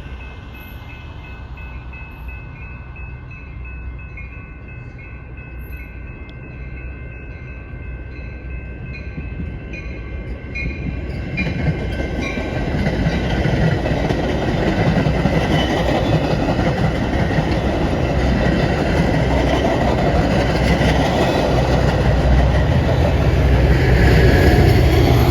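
A train approaching and passing, its rumble and wheel clatter building steadily louder through the second half. A repeating high ringing sounds during the first ten seconds or so.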